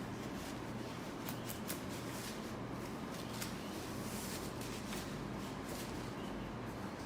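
Hair being styled by hand: soft rustling with a few short scratchy strokes and a brief hiss, over a steady low hum.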